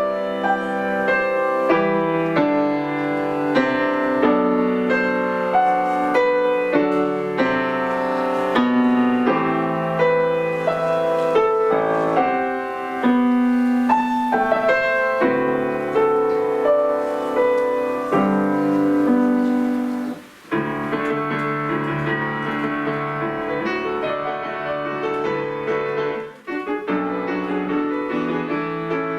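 Piano playing a piece, with a brief break in the sound about two-thirds of the way through and another shortly before the end.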